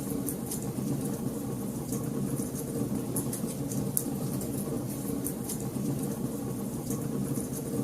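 Wood fire burning in a fireplace: frequent sharp crackles and pops, several a second and irregular, over a steady low rumble.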